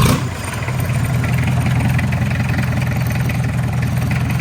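Mazda R2 four-cylinder diesel engine just firing up, then settling into a steady idle.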